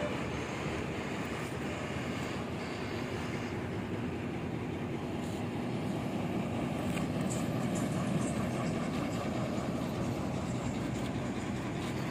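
Steady rumble of highway traffic, swelling slightly as a heavier vehicle goes by about eight seconds in.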